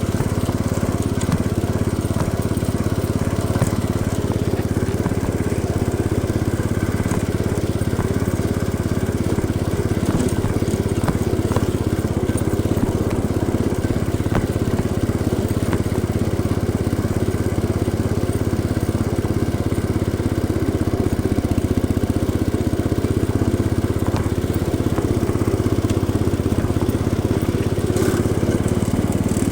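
Cub Cadet garden tractor engine running steadily at an even speed while the tractor is driven.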